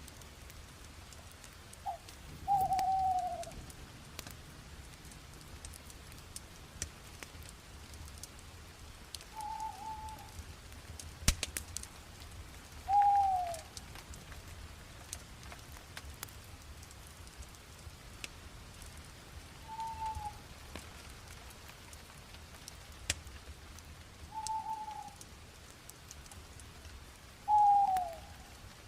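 Wood fire crackling, with scattered sharp pops and clicks. A bird calls about six times, each a short falling note.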